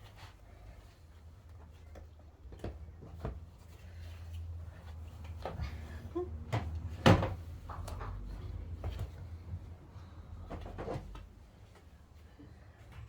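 Scattered knocks and clatters as the panels of a flat-pack storage box are handled and fitted together, the loudest knock about seven seconds in, over a low steady hum.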